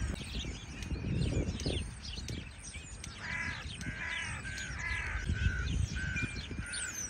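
A crow cawing: three harsh caws about three seconds in, followed by a quick run of shorter, evenly repeated caws. Small birds chirp faintly in the background.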